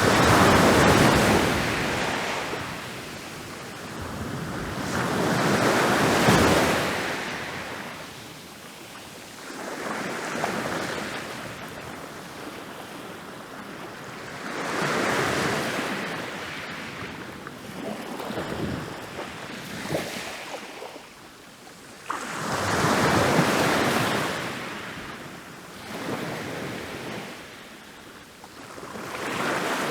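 Ocean waves rolling in and breaking on a beach, each surge of surf swelling and washing back out about every four or five seconds.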